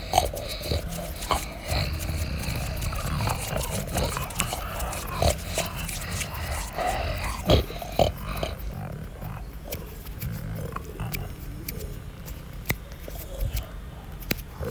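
Tiger and bear growling and roaring at each other in a fight, with many short knocks and scuffles throughout.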